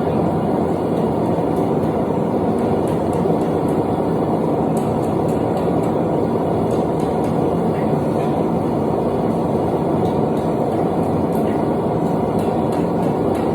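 Propane forge burner running with a steady, even rush.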